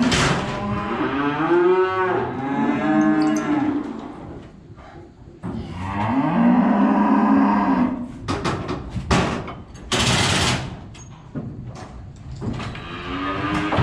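Feeder cattle mooing: three long, wavering calls, with a few sharp knocks and a short rush of noise between the second and third.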